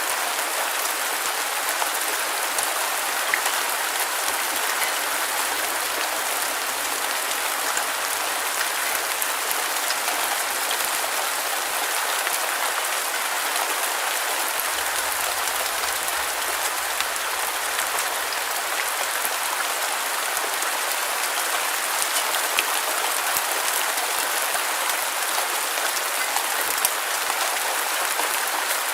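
Steady rain falling on a surface: an even hiss with many small drop ticks, with almost no low rumble.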